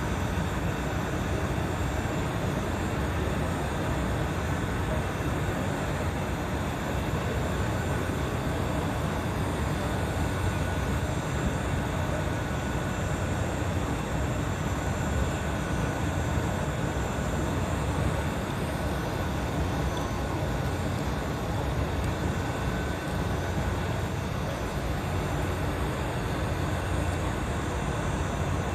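An engine running steadily on a test run, a constant low drone with no change in speed.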